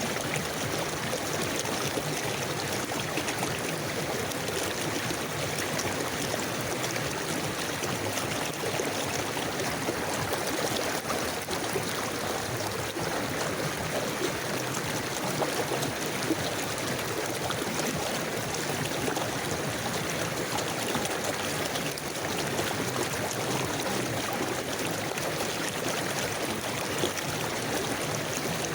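A river flowing and gurgling steadily, with no breaks or distinct events.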